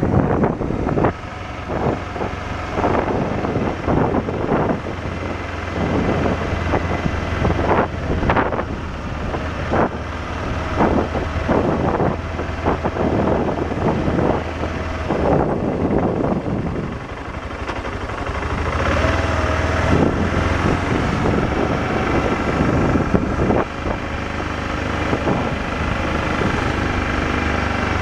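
BMW motorcycle running at road speed with a steady low engine drone, overlaid by heavy, irregular wind buffeting on the microphone.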